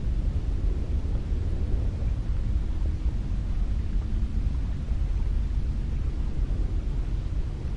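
Cold wind blowing steadily in a deep, low rumble that rises and falls slightly in gusts.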